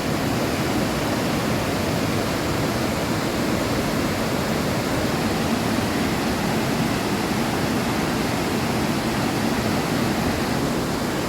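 Burney Falls waterfall rushing steadily: an even, unbroken noise of falling water.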